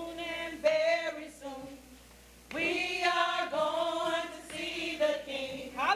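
A group of voices singing together in long held notes, breaking off briefly about two seconds in before singing on.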